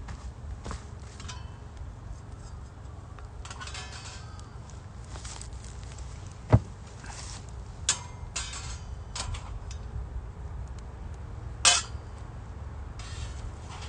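Metal camping gear being handled: scattered light clinks and knocks, with one sharp knock about six and a half seconds in and ringing clinks near eight and twelve seconds, over a steady low rumble.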